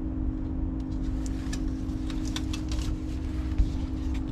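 A steady mechanical hum holding two low tones, with scattered light clicks and ticks over it.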